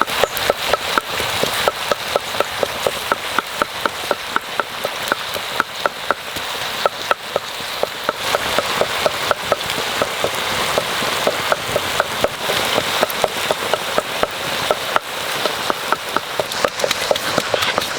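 Cow rib meat frying in hot fat: a steady sizzle with many small sharp pops, several a second.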